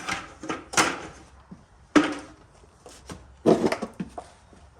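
Irregular knocks, clatter and scraping of hands and tools handling car body parts and a headlight, with one sharp knock about two seconds in and a quick cluster of knocks near the end.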